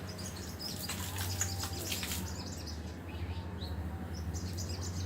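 A pet parrot gives short, high chirps in scattered clusters, busiest in the first half and again near the end. A steady low hum runs underneath.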